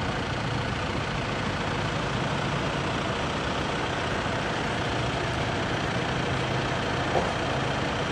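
Farm tractor engine running steadily at a low, even speed, with a brief small bump about seven seconds in.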